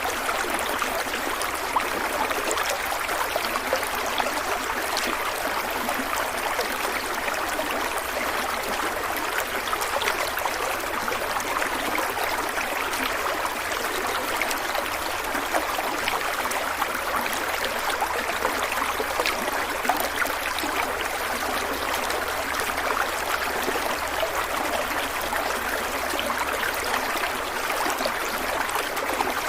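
Stream water flowing and splashing over stones, a steady rushing hiss with small splashes and droplet ticks throughout.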